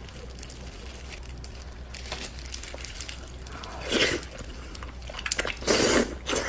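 A person eating close to the microphone: small wet chewing clicks, then two louder bursts of biting and slurping, one about four seconds in and a longer one near the end.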